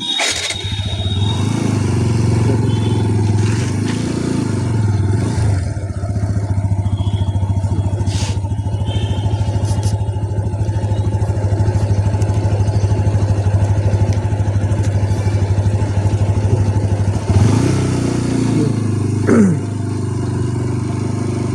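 Motorcycle engine running steadily under way, a constant low drone. Two brief louder sounds come near the end.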